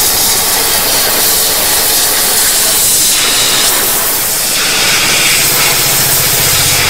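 High-pressure water jet from an electric pressure washer blasting against a brick: a loud, steady hiss. A low hum joins about five seconds in.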